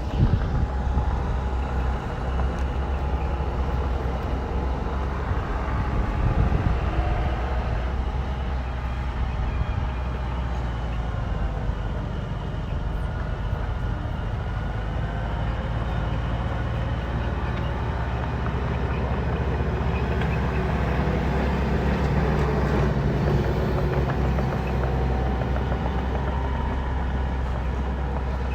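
Heavy diesel engine of a bulldozer running steadily, its pitch rising and falling gently as it works under changing load.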